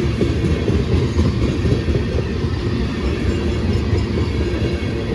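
Freight train cars rolling past on the rails, a steady heavy rumble of wheels and cars.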